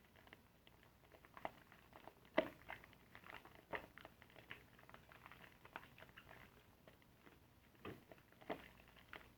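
Soapy car-wash sponge being lathered and squeezed: soft, irregular squishing and crackling of wet foam, with a few louder squelches.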